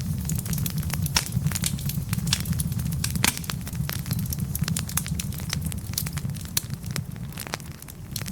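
Wood fire of burning logs crackling and popping steadily over a low rumble, with one sharper pop about three seconds in.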